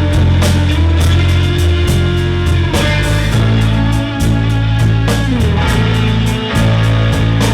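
Live band music with guitar, loud and steady, recorded on a compact camera's built-in microphone, which leaves it harsh and distorted.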